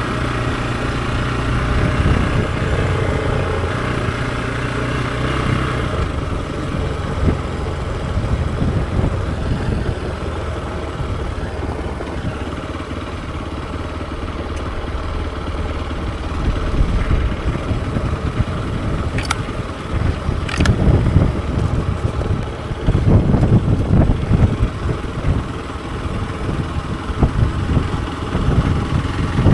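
Hero XPulse 200 4V's single-cylinder engine running under way, with a steady note for the first six seconds that then changes and roughens. From about two-thirds of the way through, gusts of wind buffet the microphone.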